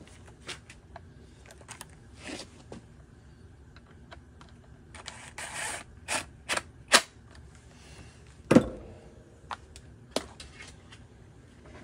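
Irregular clicks and knocks of string trimmer parts and tools being handled during reassembly, with a brief scraping rustle about five seconds in and two sharper knocks around seven and eight and a half seconds.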